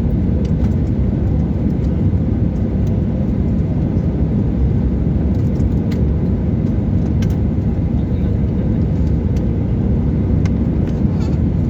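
Steady low rumble of an airliner during landing, engine and airflow noise holding even throughout, with a few faint clicks.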